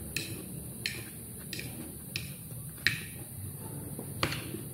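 Crunchy chewing of fresh lettuce and cucumber salad, a crisp crunch about every two-thirds of a second, with the fork clicking against the plate and one sharper click near the end.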